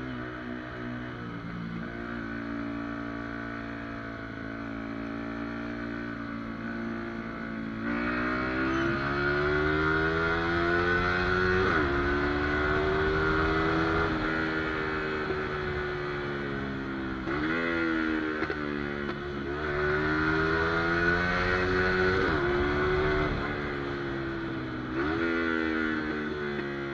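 Yamaha R15 V3 single-cylinder motorcycle engine and exhaust. It idles steadily at first, then from about eight seconds in is revved again and again, the pitch rising and falling several times.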